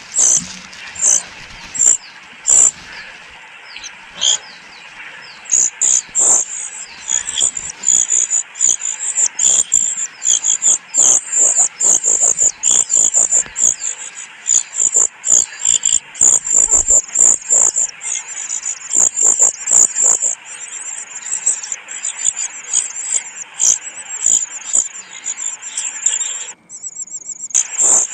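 Begging calls of a brood-parasitic cuckoo chick being fed by its host parents: very high, thin cheeping notes, spaced at first, then a fast, near-continuous stream from about five seconds in.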